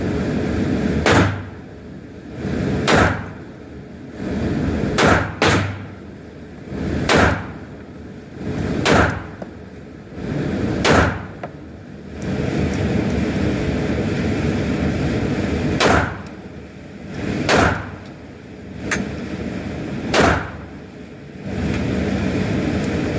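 Handgun shots fired one at a time, about ten in all, roughly every two seconds with a pause of several seconds in the middle, each with a short echo.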